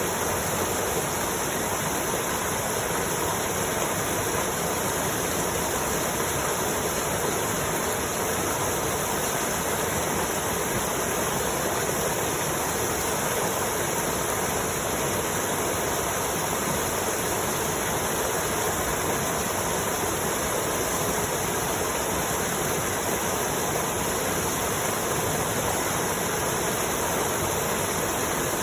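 A waterfall's steady rush of falling water, an even hiss that does not change.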